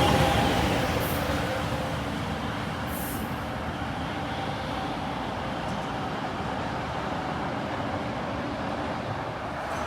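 A train going by, its noise dying away over the first couple of seconds into a steady rumble.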